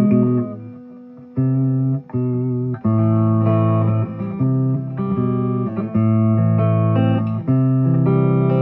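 Electric guitar, a 2007 Gibson Les Paul Standard, played through a Fuchs Train-45 tube amp with 6V6 power tubes. It plays a phrase of sustained notes and chords, with a brief lull about a second in.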